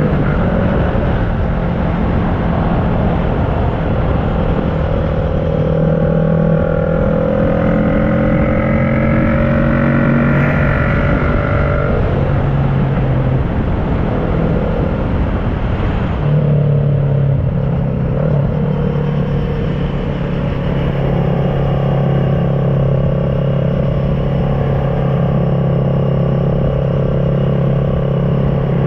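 2010 Kawasaki ER-6n parallel-twin engine through an SC Project carbon exhaust, ridden under load. The note rises as the bike accelerates, breaks off at a gear change about halfway through, then holds steady.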